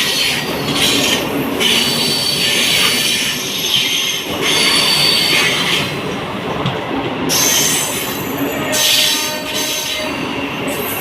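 Train running on the rails: a steady loud rumble of wheels on track, with high-pitched wheel squeal and a bright hiss that come and go every second or two.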